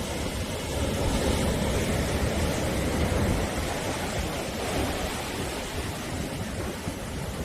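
Sea waves: a steady rush of surf that swells a little about a second in and eases off slightly toward the end.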